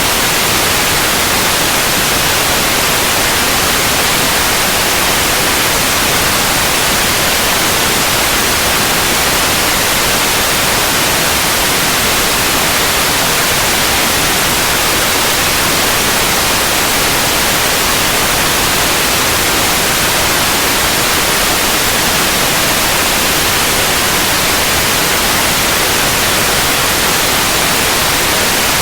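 Steady, unbroken white noise: an even hiss across the whole range, brightest in the highs, with no change in level.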